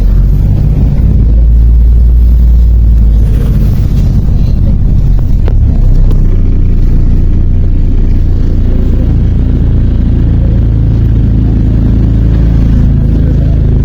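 MAZ-103 city bus diesel engine running steadily under way, a loud, low, continuous rumble heard from inside the passenger cabin.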